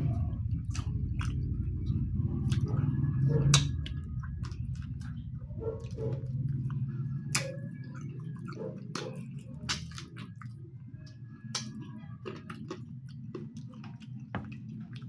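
Close-miked eating sounds: chewing, wet smacks and mouth clicks of someone eating curry with rice, over a steady low rumble that is louder for the first few seconds.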